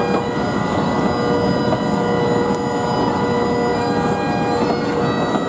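Passenger coaches rolling past at track side, their wheels making a steady rumble on the rails. Several thin, steady high-pitched tones ring over the rumble.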